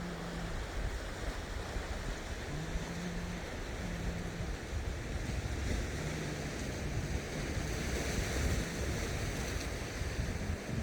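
Sea waves washing onto a rocky shore in a steady rush, with wind on the microphone. A few brief low hums sound about two and a half, four and six seconds in.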